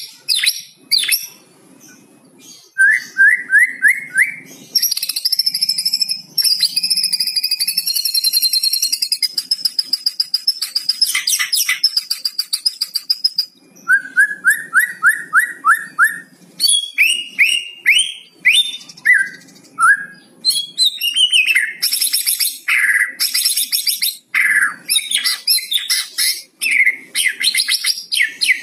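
White-rumped shama (murai batu) singing a varied song: runs of five or six quick rising notes, a long high whistle held for several seconds, and dense rattling 'kretekan' phrases in the second half.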